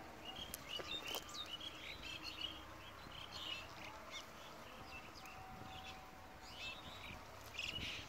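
Birds chirping: short, high calls repeated on and off, over a steady outdoor background.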